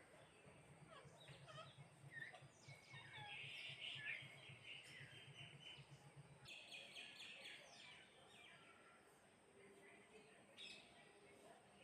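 House sparrows chirping: a busy series of short, quick chirps.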